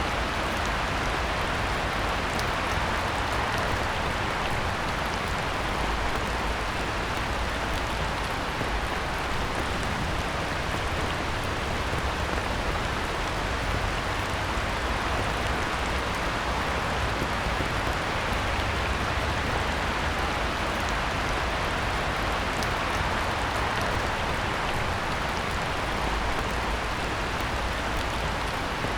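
Heavy rain falling steadily on a pond, an even hiss that never lets up.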